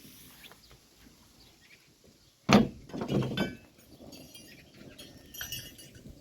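A loud animal call about two and a half seconds in, falling in pitch, quickly followed by a second wavering call, then faint high chirps of birds.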